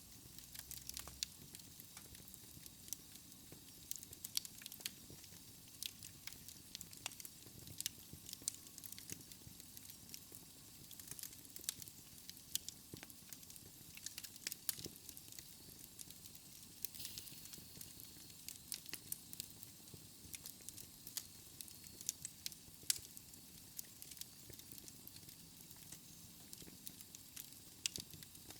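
Wood fire in a fireplace crackling: many sharp, irregular pops and snaps over a soft, steady hiss.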